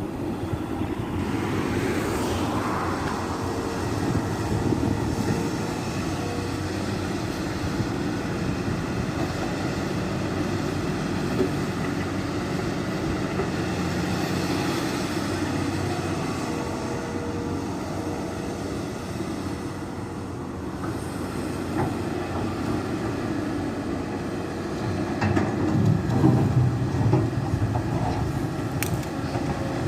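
Volvo EC480 crawler excavator at work: its diesel engine runs steadily under hydraulic load, with scattered metallic clanks and clicks. The engine swells louder a few seconds before the end.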